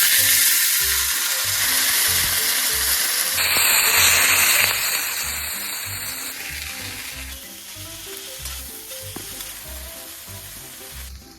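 Meat and vegetables sizzling loudly as they are stir-fried in a hot oiled pan; the sizzle is strongest for the first few seconds, then gradually dies down.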